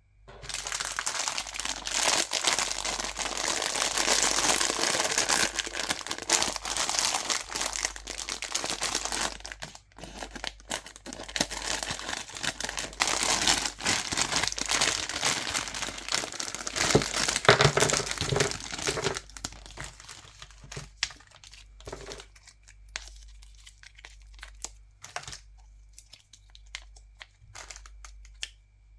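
Plastic candy wrappers being crinkled and torn open close to the microphone. There are dense, continuous crackles for most of the first twenty seconds, broken by a short pause about ten seconds in, then only sparse crackles and clicks.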